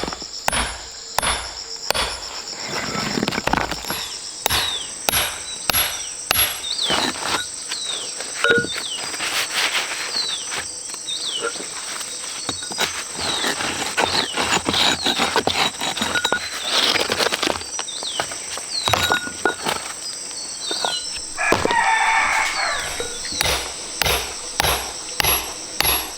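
A hand tool striking over and over, roughly two knocks a second, with birds chirping, a steady high insect drone and a longer call about 22 seconds in.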